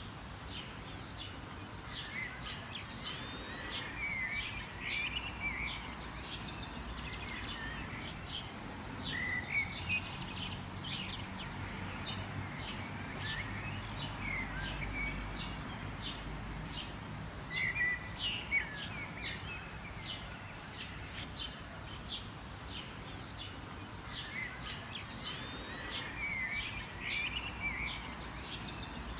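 Several birds chirping and calling over one another in quick short notes and little whistled phrases, over a low steady rumble.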